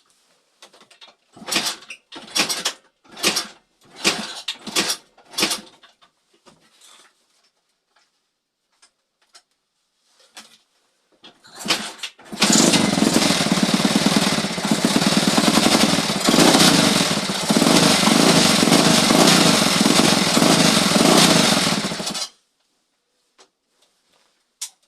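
Several short bursts of sound, then a small engine running loudly and evenly for about ten seconds before it cuts off suddenly.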